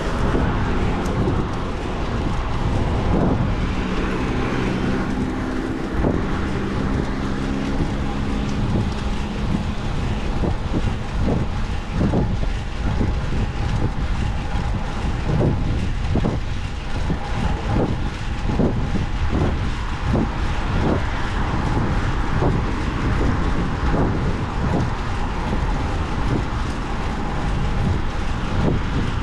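Wind rumbling and buffeting the microphone while riding a fixed-gear bicycle on the road, with traffic noise. A motor vehicle's steady hum is heard in the first several seconds.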